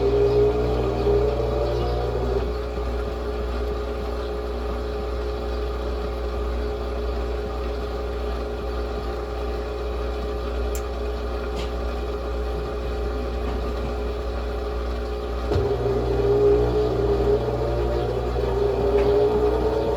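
Brastemp Ative 11 kg top-loading washing machine running its wash cycle: a steady low motor hum, with a whine that rises in pitch at the start and again from about three-quarters of the way through as the motor speeds up.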